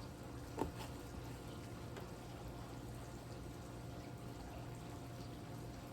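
Quiet room with a steady low hum and one short knock about half a second in.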